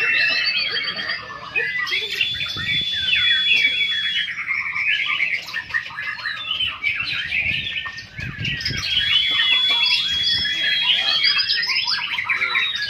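Several white-rumped shamas singing at once in competition: a dense overlapping mix of rapid chirps and trills, with long, steady high whistles twice.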